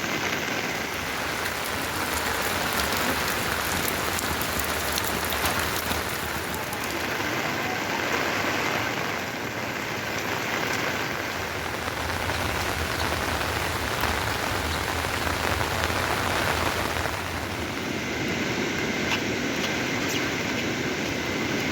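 Heavy rain falling steadily, a dense hiss speckled with the ticks of individual drops.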